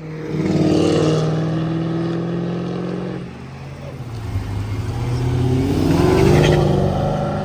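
A car engine accelerating hard away from the show, its pitch climbing. It eases off about three seconds in, then revs up again near the end.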